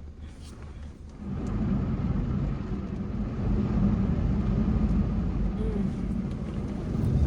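Automatic car wash machinery running around the car, heard from inside the cabin: a steady low rumble that starts about a second in and grows slightly louder near the end.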